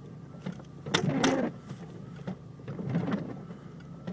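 Inside a truck's cab: the engine idling with a steady low hum, scattered light clicks, and a louder rushing sound about a second in, with a weaker one about three seconds in.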